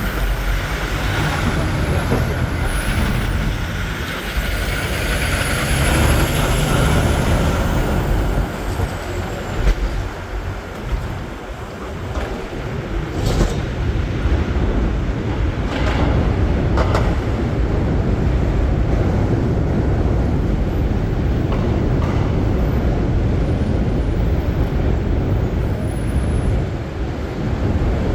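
Steady city street traffic: a constant rumble of passing vehicles, including heavy ones like trucks and buses. A faint high-pitched squeal wavers up and down through the first ten seconds, and a few short sharp sounds come in the middle.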